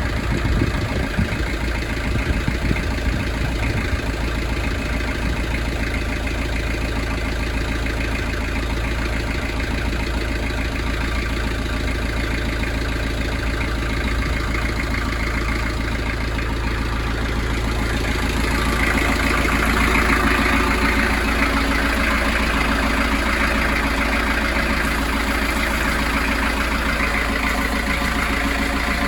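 Narrowboat's diesel engine running steadily at idle. About two-thirds of the way through, a steady rushing noise joins it and the overall sound gets a little louder.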